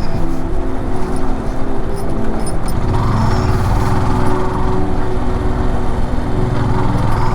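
Air-cooled motorcycle engine running steadily at cruising speed on the road.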